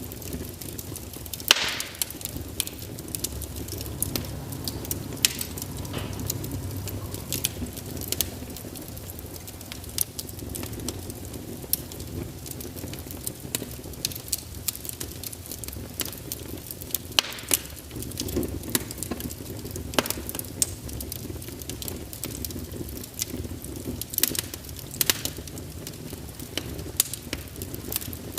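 Firewood burning in a fireplace: a steady low rush of flame with frequent, irregular sharp crackles and pops, a few louder snaps among them.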